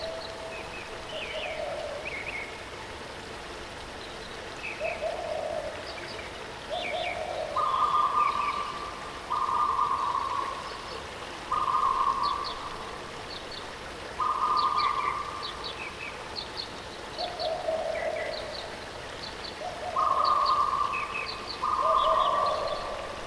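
Steady rush of a waterfall with birds calling over it. One bird repeats drawn-out single notes of about a second each, alternating between a lower and a higher pitch. Short high chirps from other birds come in between.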